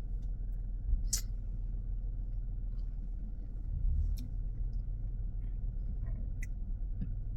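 Low, steady rumble of a car heard from inside the cabin while it is manoeuvring to park, with three short clicks spread through it.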